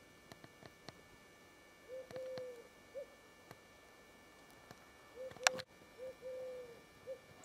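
A bird calling with soft hooting coos, in phrases of a short note, a longer slightly falling note and another short note, repeated a few times. A sharp click about five and a half seconds in, with faint ticks scattered through.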